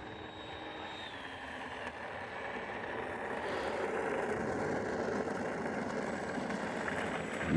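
Electric ducted fan of an E-flite Viper 70mm EDF jet running at low power while taxiing on the ground. A thin high whine glides down and stops about a second in, then a rushing sound slowly grows louder.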